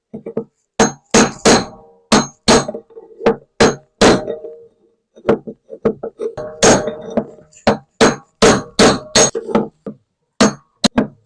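Hammer blows on a punch, driving a front-loading washing machine's worn-out drum bearing out of its seat: about two dozen sharp metallic strikes, two or three a second, each ringing briefly, with a short break about halfway through.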